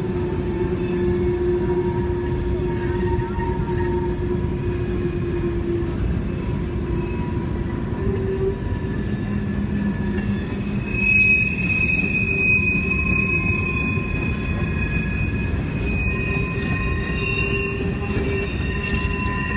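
Freight train rolling past, a steady rumble of wheels on rail with high squealing tones from the wheels that grow stronger about halfway through.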